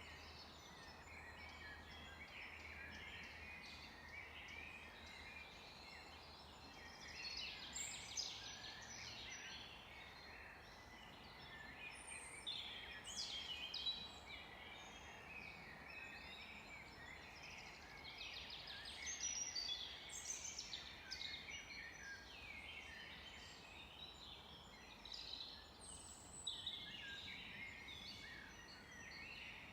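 A chorus of many songbirds singing at once, with overlapping chirps and rapid trills. Louder song phrases from nearer birds come and go over a faint steady hiss.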